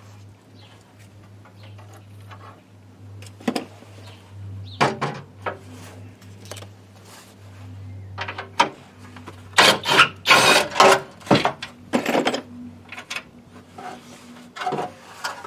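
Irregular knocks, clicks and clatter of tools and parts being handled while a van's front bumper is taken apart. The busiest, loudest run of knocks comes about ten to twelve seconds in, over a steady low hum.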